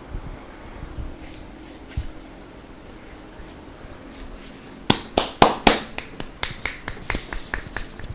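Hands striking a person's upper back and shoulders in a percussive massage. After a quieter stretch with a few soft thumps, about five seconds in come four loud sharp slaps in quick succession, then a faster run of lighter slaps.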